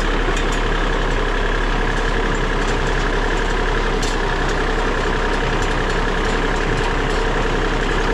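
Tractor engine running steadily, an unbroken drone with no change in speed.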